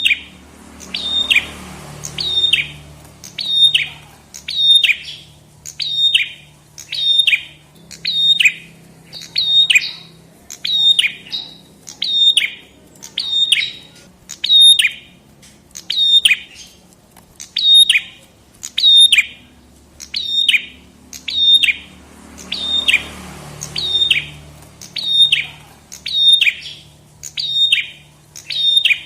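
Prenjak kepala merah, a small prinia-type songbird, repeating one short, sharp, falling chirp at an even pace of a little more than one a second.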